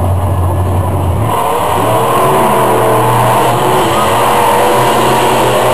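Monster truck engine running loud: a steady low drone for about the first second, then its pitch rising and falling as it is revved.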